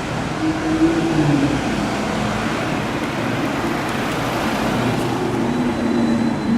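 Maserati GranTurismo's V8 running at low revs with a steady, gently wavering note, over the hiss of street traffic.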